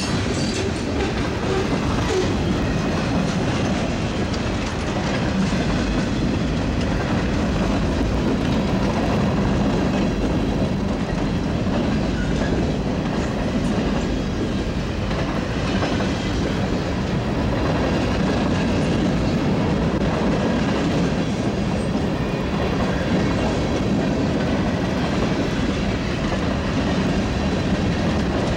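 Freight train's boxcars and covered hopper cars rolling past, a steady noise of steel wheels running on the rails.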